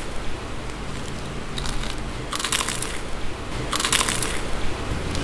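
Close-up crunching of a bite of bituka, crispy fried pork intestine, being chewed. A few separate crisp crunches come about a second apart, the loudest two in the second half, with softer chewing between them.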